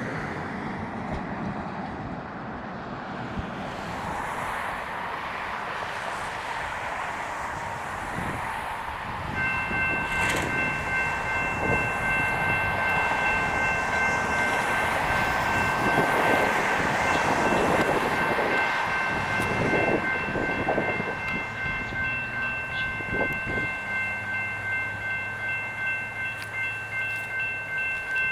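A railroad crossing's electronic bell starts ringing about nine seconds in and keeps ringing steadily as a Siemens-Duewag U2a light rail train rumbles through the crossing with some knocking.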